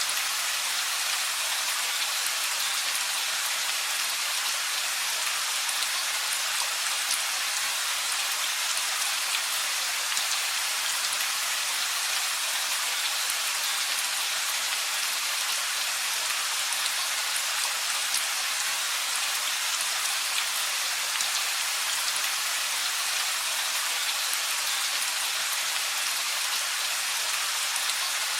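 Steady rain falling, an even hiss of many fine drops hitting surfaces, with no thunder.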